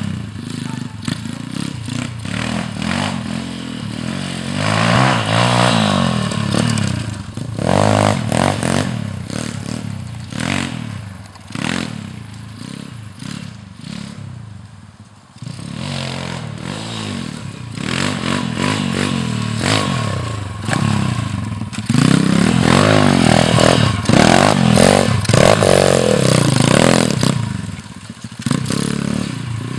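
Small four-stroke pitbike engine revving up and down as it is ridden around a dirt track, the pitch rising and falling with the throttle. It fades down about halfway through, then comes back louder, loudest in the last third.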